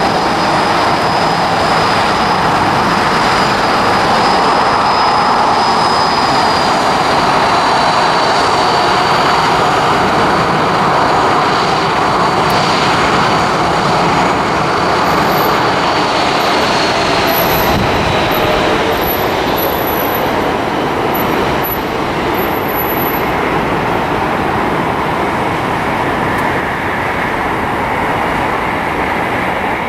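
Jet airliner engines running loud and steady, with a high whine that slides slowly lower in pitch.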